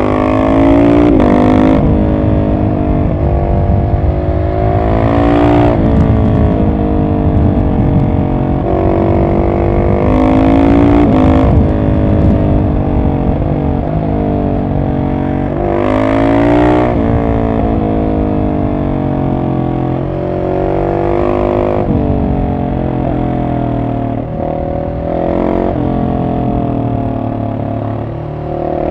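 Husqvarna 701 SM's single-cylinder engine through a decatted Arrow exhaust with the dB-killer in, pulling hard with the revs climbing and then dropping back, over and over about every five seconds as it accelerates and slows between bends. A steady low rumble of wind and road noise runs underneath.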